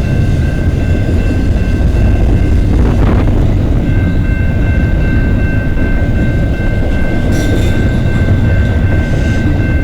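CN eastbound intermodal freight train rolling past close by: a loud, steady rumble of wheels on rail, with a thin steady high tone that grows stronger about four seconds in.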